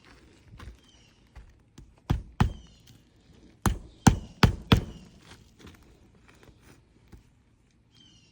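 Six sharp thunks: two close together about two seconds in, then four more in quick succession about a third of a second apart. Birds chirp in short falling notes in the background.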